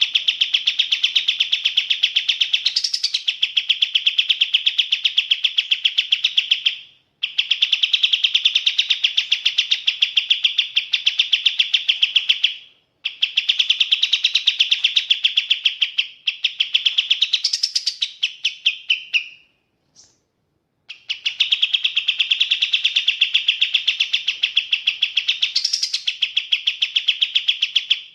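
Kapas tembak songbird singing: long strings of fast, evenly repeated high notes in four phrases of about six seconds each, split by short pauses, with a brief higher upward flick inside three of them.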